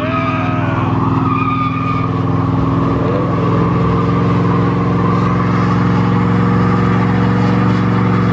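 Car engine held at high, steady revs, loud and unchanging in pitch.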